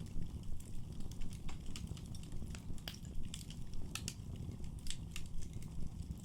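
Wood fire burning in a fireplace: a low steady rumble of flame with irregular sharp crackles and pops from the burning logs, several of them louder, about three and five seconds in.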